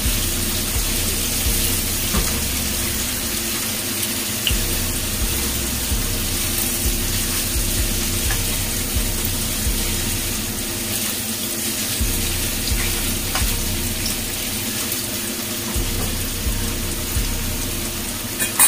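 Tofu pieces sizzling in hot oil in a frying pan as they are turned over: a steady hiss with occasional light knocks, and a faint steady hum underneath.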